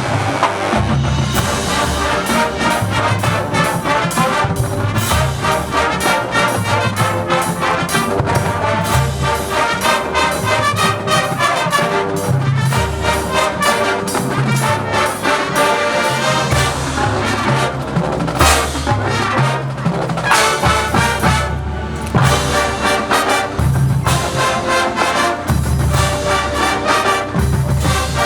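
High school marching band playing, led by brass (trumpets and trombones) over drums and a pulsing low brass line.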